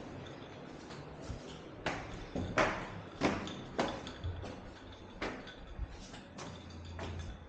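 Footsteps, a sharp step about every half to two-thirds of a second from about two seconds in.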